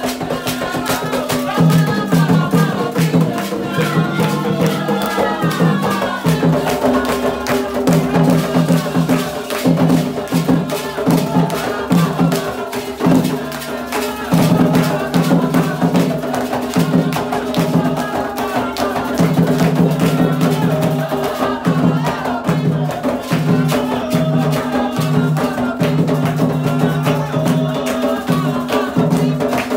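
Candomblé ritual music: hand drums beating a steady fast rhythm with rattles, and voices chanting over it.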